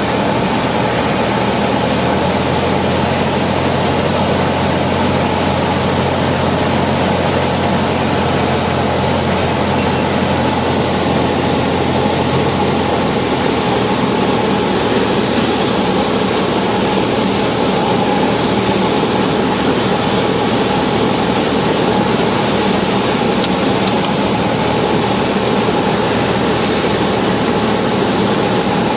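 Cessna 172 single-engine piston engine and propeller droning steadily, heard from inside the cabin on final approach. The deepest part of the engine note thins out about halfway through.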